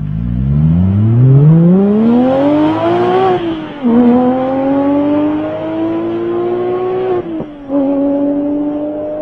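Porsche 997 GT3's flat-six engine under hard acceleration, revving up through the gears. The pitch climbs steeply, drops at an upshift about three and a half seconds in, climbs again more slowly, and drops at a second upshift about seven seconds in as the car pulls away.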